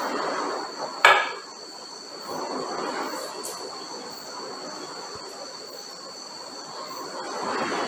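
A single sharp knock with a brief ring about a second in, over a steady high-pitched insect drone and a fluctuating rushing noise.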